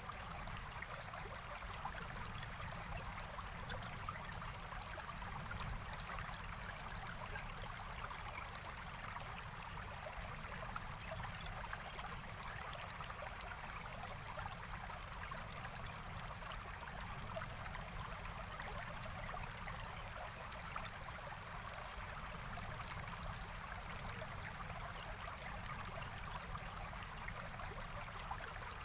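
Forest stream flowing steadily, an even rushing and trickling of water.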